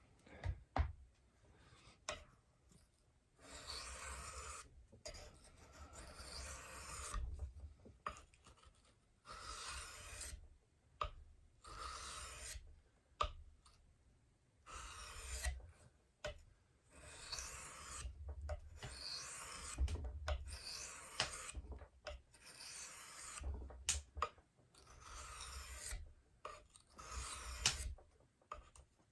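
Steel knife blade stroked across a wet Japanese whetstone: about ten scraping passes, each one to two seconds long, with short pauses and small clicks between strokes.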